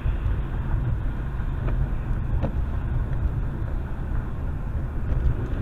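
Steady low rumble of a car on the move: engine and road noise picked up by a dash camera.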